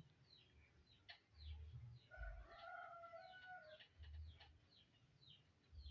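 Faint bird sounds: many quick high chirps repeating, with one longer held call lasting over a second about two seconds in.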